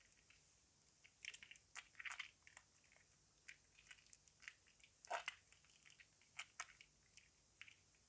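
Soaked laundry soap in a basin crackling and clicking faintly as it is worked: irregular soft crunches and clicks, starting about a second in and clustered near the middle.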